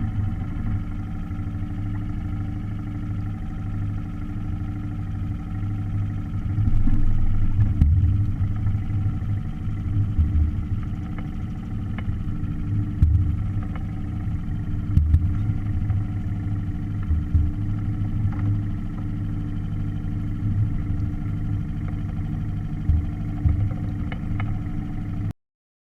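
Small outboard motor running at a steady speed, with uneven low buffeting over it.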